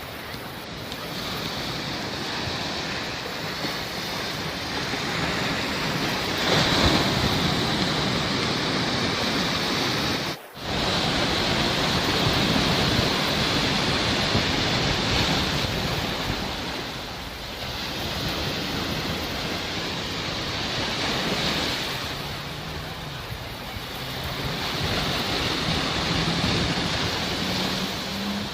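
Sea waves washing ashore, the surf swelling and ebbing every few seconds, with a brief sudden break about ten seconds in.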